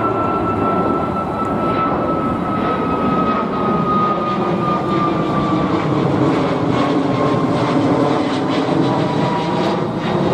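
Airbus A321neo's CFM LEAP-1A turbofans at takeoff power on departure: a loud, steady jet roar with an engine whine that slowly falls in pitch as the jet passes and draws away.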